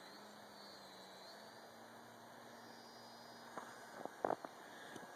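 Faint, steady hum of a small electric RC airplane's brushless motor and propeller, its pitch stepping up slightly about a second and a half in. A few short clicks come around four seconds in.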